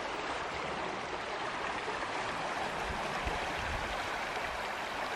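River water flowing, a steady rush with no break.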